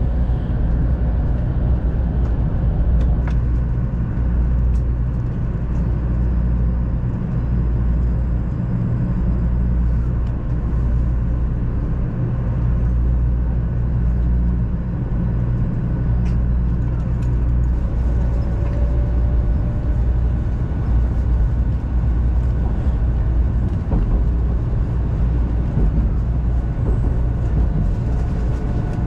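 500 series Shinkansen train running: a steady low rumble that holds at an even level, with faint thin whines over it.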